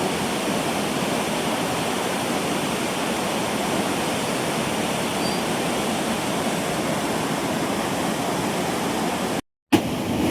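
Steady rush of a flood-swollen mountain river. The sound breaks off for a moment near the end, with a sharp knock as it returns.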